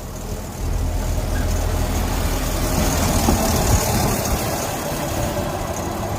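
Diesel locomotive engine running steadily, stepping up in level about half a second in. A rushing hiss swells in the middle and then eases.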